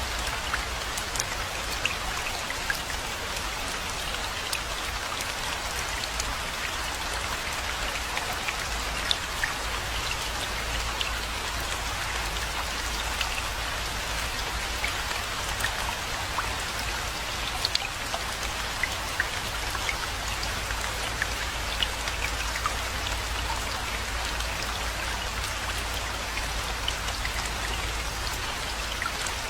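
Steady rainfall, a constant hiss dotted with many sharp individual drop hits, over a low steady rumble.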